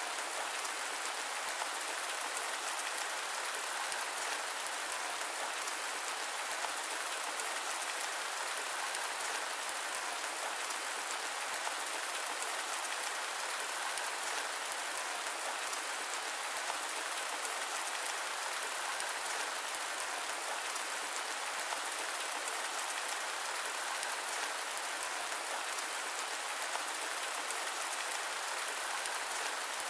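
Steady rain: a dense, even hiss of falling drops with fine pattering, unchanging throughout and with no thunder or low rumble.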